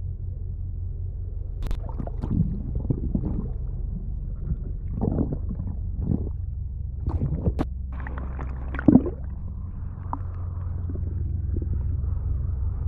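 Sea water gurgling and splashing over a camera submerged in the surf, with a muffled low rumble underneath. The gurgles come in irregular bursts, then give way to a steadier wash as the camera nears the surface.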